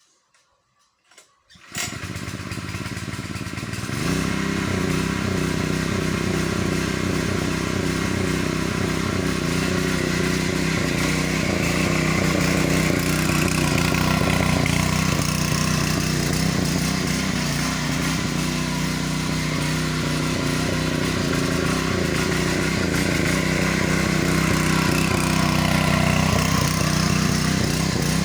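A small engine starts up about two seconds in, gets louder a couple of seconds later, then runs steadily.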